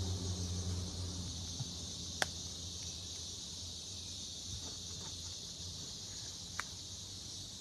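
Steady high-pitched chorus of insects, crickets or similar, chirring without a break. A low hum fades out over the first second or so, and a couple of sharp clicks stand out, one about two seconds in and another near the end.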